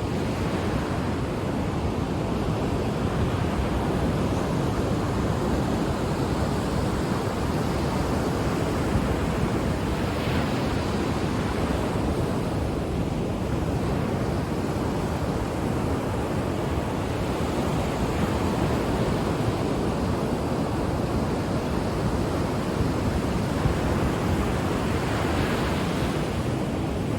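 Ocean surf breaking on the shore: a continuous wash of waves, swelling and falling back every few seconds, with some wind on the microphone.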